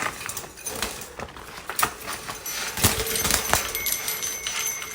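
Irregular metallic clicking and clattering, like wire cage bars and fittings being rattled as a pet parakeet is grabbed for. Faint steady high-pitched tones come in about halfway through.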